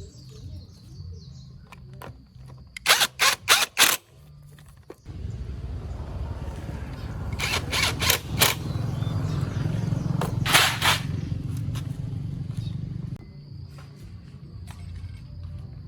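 A small engine running steadily, growing louder for several seconds in the middle, with a few sharp loud clicks or knocks: a quick run of four, then a few more later.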